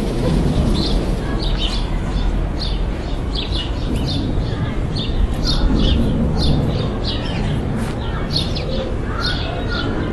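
Small birds chirping in quick, short calls again and again over a steady low rumble of background noise.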